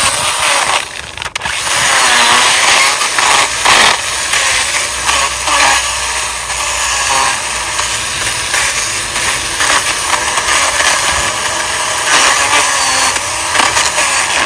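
Small one-handed pruning chainsaw running and cutting roughly into the top of a thick tree trunk, its pitch shifting as the chain bites into the wood. It eases off briefly about a second in, then runs on and cuts off suddenly at the end.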